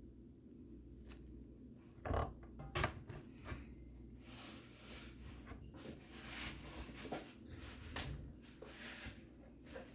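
Small taps, two sharp clicks and scraping of hand tools working on a circuit board while chips are desoldered, over a low steady hum.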